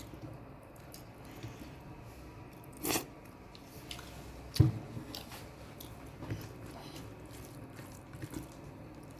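A person eating a home-cooked meal of rice, dal and egg curry: quiet chewing and biting with scattered mouth and plate noises. A short noisy burst comes about three seconds in, and a sharp knock, the loudest sound, comes about a second and a half later.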